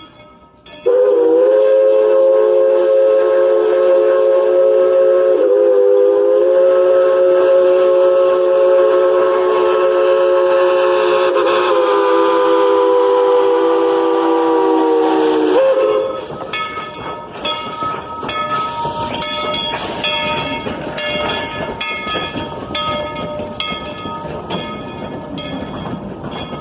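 Narrow-gauge steam locomotive's chime whistle sounding one long chord of several notes for about fifteen seconds, wavering briefly twice. After it cuts off, the train runs on with a regular beat.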